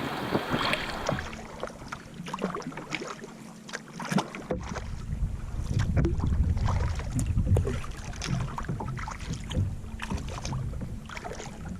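Kayak paddle strokes dipping and splashing, with water sloshing along the hull of a Wilderness Systems Tempest 170 touring kayak. A low rumble rises in the background about four seconds in.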